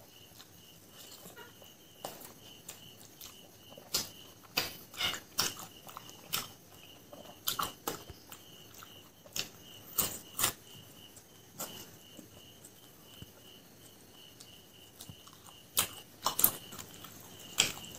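Close-miked eating sounds of fried pork leg eaten by hand: wet chewing, lip smacks and sharp clicks, in irregular clusters with short pauses. A faint, evenly pulsing high chirp runs behind them.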